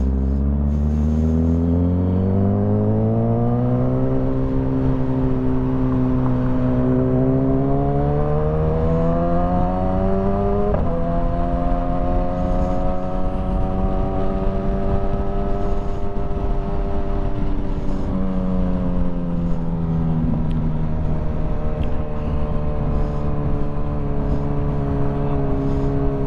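Motorcycle engine pulling hard, its pitch climbing steadily for about ten seconds, then a quick gear change about 11 s in. It climbs again, eases off around 18 s in and settles to a steady cruise, with wind rush underneath.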